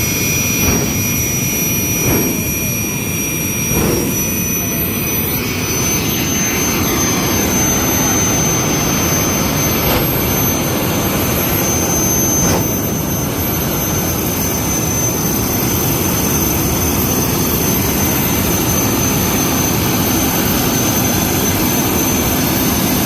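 Jet dragster's turbine engine running at part throttle on a practice pass: a high whine over a steady rush, the whine stepping up and the rush filling out about six seconds in. A few short thumps in the first four seconds.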